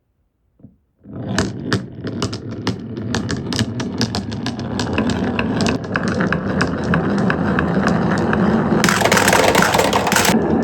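Glass marbles rolling and clacking down a wooden HABA marble-run track. Rapid clicks ride over a rolling rumble that starts about a second in and grows steadily louder. From about nine seconds a denser, brighter rattle takes over.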